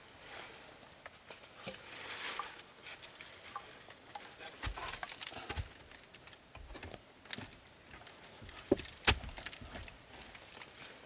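Scattered light knocks, clicks and rustling of things being handled, with two sharper knocks about nine seconds in.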